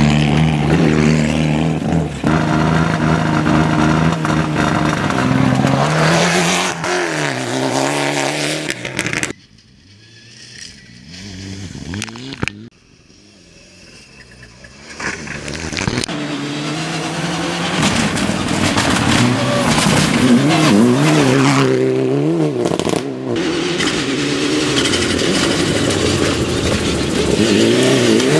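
Rally car engines at full effort, revving up and down through gear changes, in several short clips cut together. The sound drops off sharply about nine seconds in to a quieter, more distant stretch, then builds back to loud engine revving from about fifteen seconds on.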